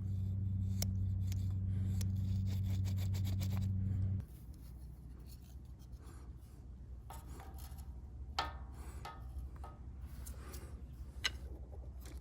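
A steady low hum that cuts off suddenly about four seconds in, then quiet, scattered rubbing and scraping strokes with light clicks.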